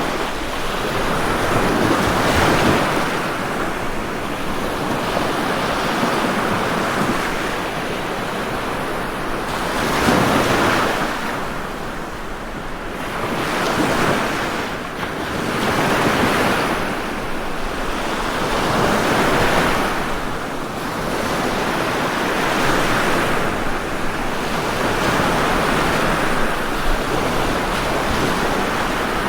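Ocean waves breaking and washing on a shore in a continuous roar that swells and eases every few seconds as each wave comes in.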